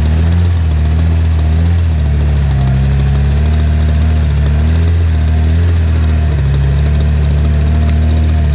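Off-road vehicle's engine running at low, fairly steady revs, its pitch dipping and rising slightly every second or two.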